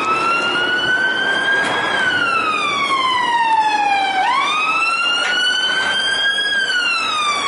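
Electronic siren wail from a battery-operated toy military car: one wavering tone that rises, falls slowly, sweeps back up a little past halfway, and falls again near the end.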